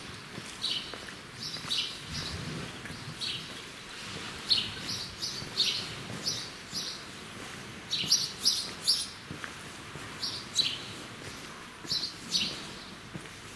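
Small birds chirping: short, high chirps, some quickly falling in pitch, repeated irregularly and sometimes in quick runs of two to four.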